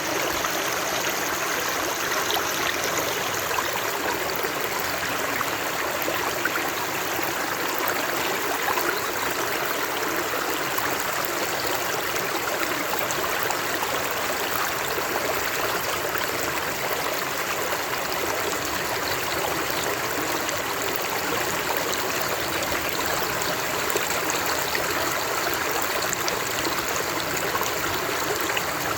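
Running water flowing steadily, an even rushing with many small splashes and trickles.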